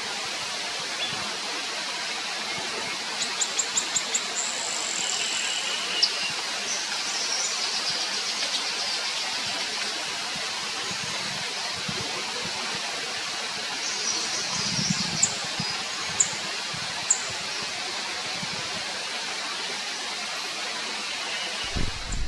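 Forest ambience: a steady rushing noise with wild birds calling over it, a quick run of about seven high notes a few seconds in and a few sharp high calls later on.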